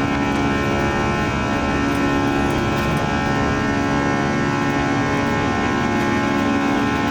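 Airbus A340-300's CFM56-5C turbofan engines at high thrust, heard from inside the cabin: a steady jet drone with many held tones over a rushing noise.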